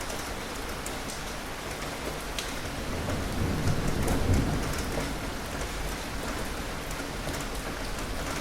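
Steady rain falling on a surface, with scattered drop ticks. Between about three and five seconds in, a low rumble swells and fades, like distant thunder.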